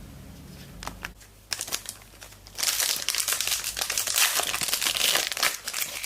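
Trading card pack wrapper being handled and crinkled open. A few light clicks of handling at first, then dense crinkling from about two and a half seconds in.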